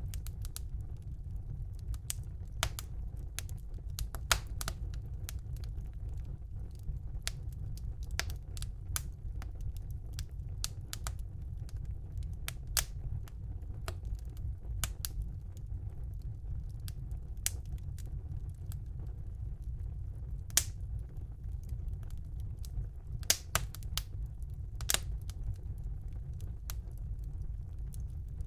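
Wood fire burning in a fireplace: irregular crackles and sharp pops over a steady low rumble, with a handful of louder pops scattered among them.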